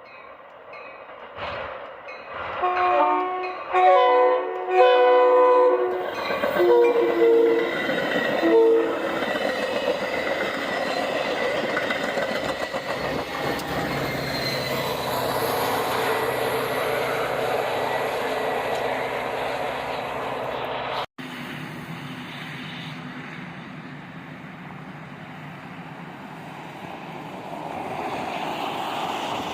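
Train horn sounding a series of chord blasts, several in a row, as the train approaches. Then the train passes with a steady rumble and wheel noise on the rails.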